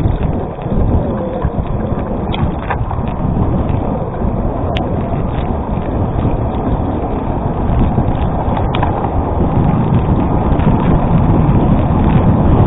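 Gravel bike tyres crunching and rumbling over a gravel road, with wind on the microphone and the occasional sharp click of a stone or the bike rattling. The rumble grows louder in the second half.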